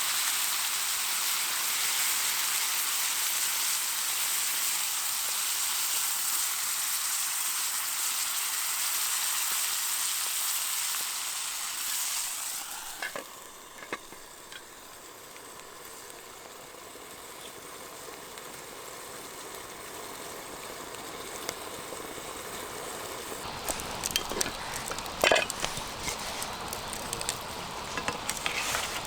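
Salmon frying in a pan over a wood fire, sizzling loudly, then dying down to a quieter sizzle about halfway through. Scattered sharp clicks and knocks come near the end.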